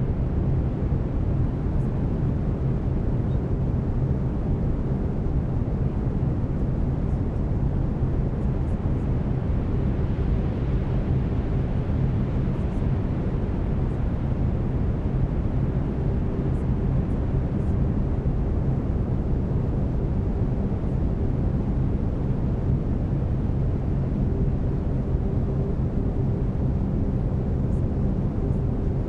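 Brown noise: a steady, deep rushing hiss, with low steady binaural-beat tones humming underneath.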